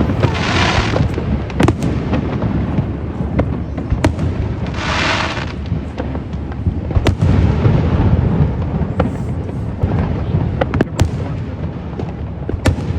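Fireworks going off without pause: a dense rumble of booms with many sharp cracks. Two bursts of hiss come near the start and again about five seconds in.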